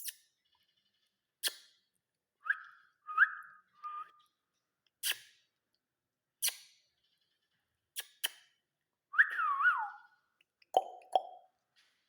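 Pet parrot calling: a string of short sharp chirps, several brief whistled notes, and about nine seconds in a longer whistle that glides downward, followed by two lower calls.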